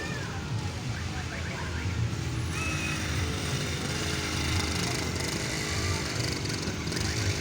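Steady low rumble of outdoor background noise, with a few faint, short high-pitched sounds now and then.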